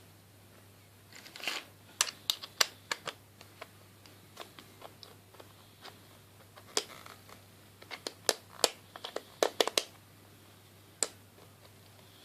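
Hard plastic parts of a coffee grinder being handled: irregular sharp clicks and knocks in two clusters, with a short rustle near the start. The grinder motor is not running.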